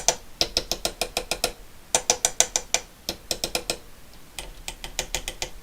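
Quick light taps on the metal cans of the radio's AF117 transistors, in four short runs of about eight taps a second, tapping to shake loose tin-whisker shorts in the dead set. A faint mains hum from the bench power supply lies underneath.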